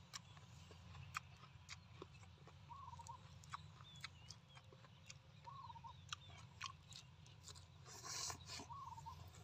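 Faint mouth sounds of eating braised pork wrapped in lettuce: soft chewing and lip smacks, with a louder smack as food goes into the mouth near the end. A short warbling bird call repeats about every three seconds.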